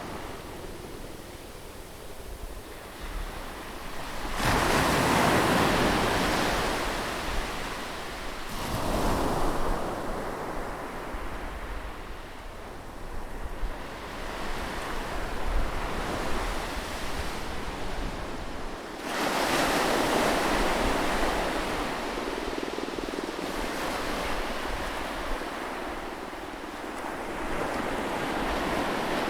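Atlantic surf breaking on a sandy beach: waves crash and wash up the shore in surges, the big breaks coming about 4 s, 9 s and 19 s in, with a softer hiss of wash between them.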